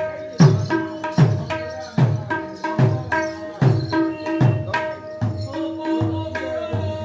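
Mridanga drum played in a steady rhythm: sharp strokes on the treble head ring with a clear pitch, while deep bass strokes come about once a second and slide down in pitch as they die away.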